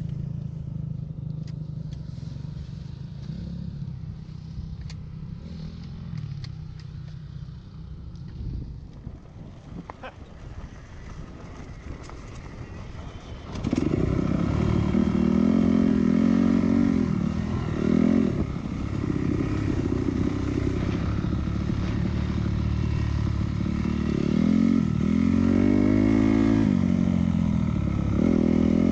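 Dirt bike engine running at low revs, then a little under halfway through much louder as it is given throttle, the revs rising and falling repeatedly. A few clicks and clatters are heard in the quieter first part.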